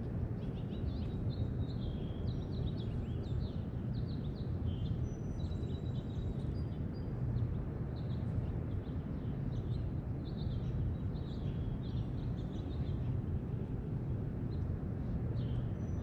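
Small birds chirping repeatedly, short high calls with a few brief thin whistles, over a steady low background rumble.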